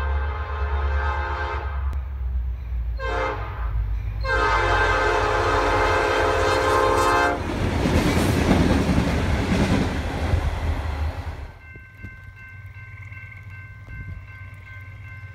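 Freight locomotive air horn sounding the end of a grade-crossing signal: a long blast ending, a short blast, then a final long blast. The locomotive then passes close by in a loud rush of engine and wheel noise. This drops after about eleven seconds to a quieter steady rumble of rolling cars, with faint steady high tones.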